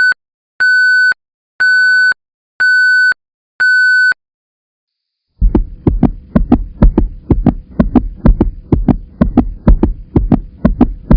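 Five electronic beeps, evenly spaced about once a second, each a steady high tone. After a short silence comes a fast run of heavy thumps, about three a second, with a faint steady hum beneath.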